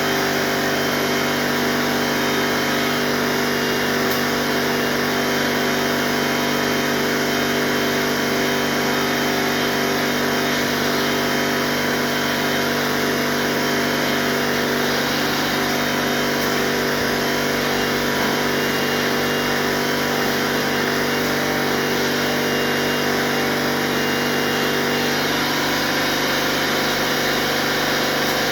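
Air compressor running steadily with a constant mechanical hum and drone, still building pressure before it cuts off.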